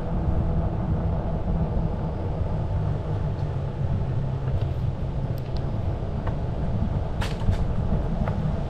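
Wind buffeting the microphone during an e-bike ride, a steady low rumble, with a few light clicks about seven seconds in.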